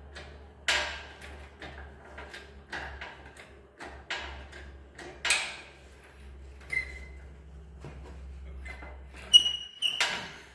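Workshop clatter: irregular knocks and clanks of metal tools and parts being handled, with a short ringing metal clink about nine seconds in, over a low steady hum.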